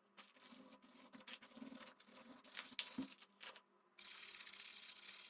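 Rust being scrubbed off the bare metal of a scooter with an abrasive, in uneven strokes with short pauses and a steadier run near the end. This is cleaning the metal back to help linseed oil soak into the pores.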